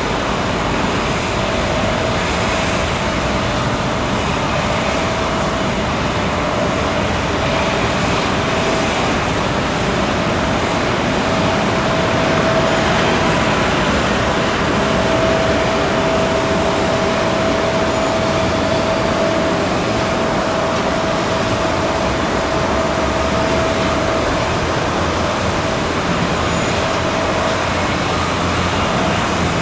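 Steady jet airliner noise: a broad rush with a constant whine held at one pitch, from a Boeing 777-300ER on the ground.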